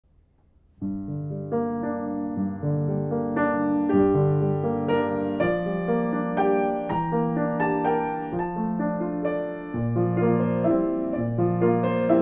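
Piano music, entering about a second in with a series of struck notes and chords.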